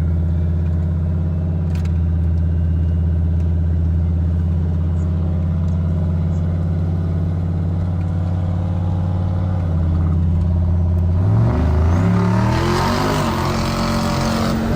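Turbocharged 5.3 V8 truck engine running at a steady speed. About eleven seconds in, its pitch shifts in steps and a loud rush of noise builds.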